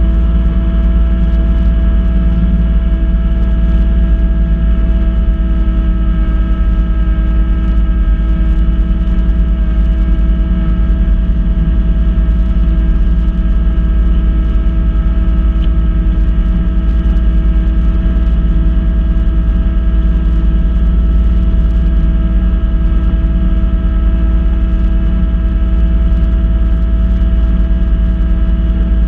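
Kubota B2650 compact tractor's three-cylinder diesel engine running steadily at working speed, driving its front-mounted B2782 snowblower, with a deep rumble and a constant hum.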